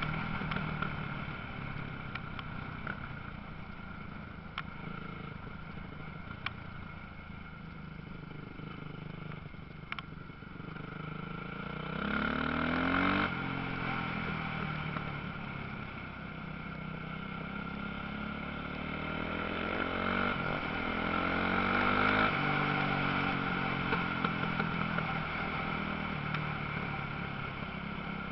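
Motocross bike engines running on the track, the pitch rising and falling as riders rev through the gears. The sound swells loudest twice, about halfway through and again about three quarters of the way in.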